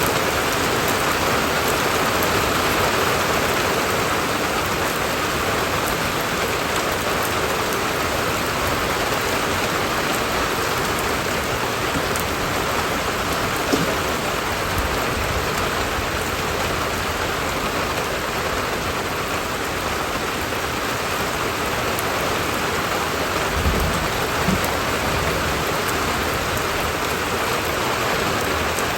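Steady rain falling and pattering on surfaces, an even hiss that holds throughout, with a couple of brief soft knocks partway through.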